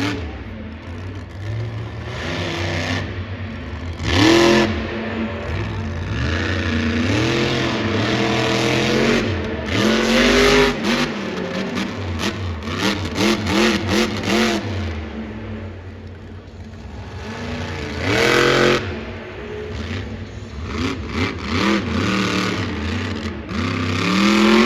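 Monster truck engines, blown alcohol-burning motors, revving again and again: each burst rises and falls in pitch over a steady low rumble of idling engines. The loudest surges come about 4, 10, 18 and 24 seconds in.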